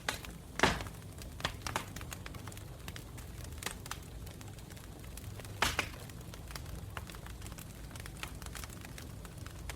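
Campfire crackling: burning wood gives off irregular sharp pops and snaps, with two louder pops, about half a second in and near six seconds, over a low steady background.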